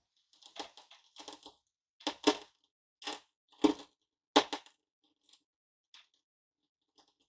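Hard-candy lollipops being smashed: a run of sharp crunching cracks, about half a dozen strong ones, then a few faint ticks near the end.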